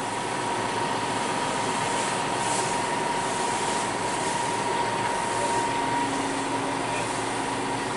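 Fendt 211 Vario tractor driving, heard from inside the cab: a steady running noise with a high whine, and a lower hum joining in about two thirds of the way through.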